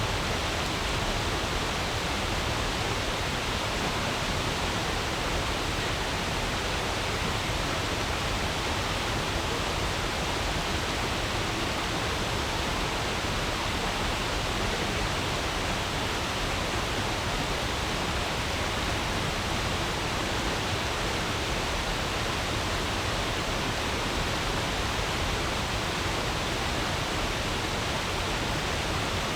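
A stream flowing over stones, a steady, even babble of water that does not change.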